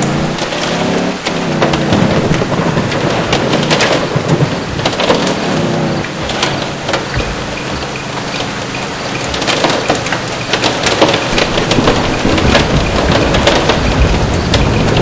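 Heavy rain and hail pelting a moving car's body and windshield: a dense, loud hiss of rain thick with sharp ticks of hailstones striking. The car's engine note rises in pitch near the start.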